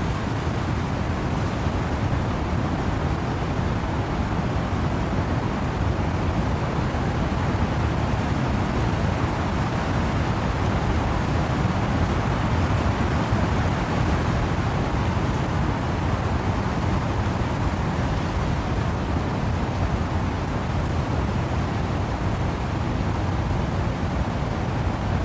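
Wind and rain through trees: a steady, even rushing noise that swells slightly about halfway through.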